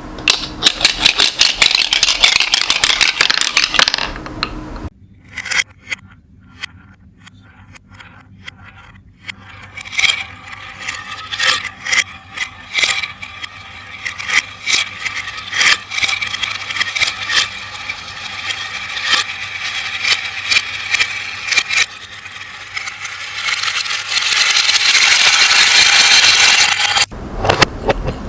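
Glass marbles rolling and clicking down a marble run. Dense rolling and clattering at the start, then scattered single clicks that build back up into a steady rolling rush near the end.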